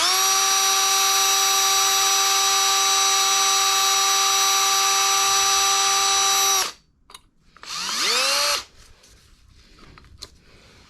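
Power drill spinning up and running at a steady pitch for about six and a half seconds, then winding down. A second, shorter burst follows about a second later. The drill is boring a relief cut into an over-tightened clutch nut on a Kawasaki KZ400 engine to ease the tension off it.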